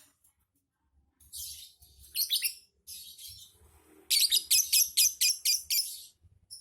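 Lovebird chattering in high, shrill chirps. About four seconds in it breaks into a fast run of loud chirps, about five a second, lasting some two seconds.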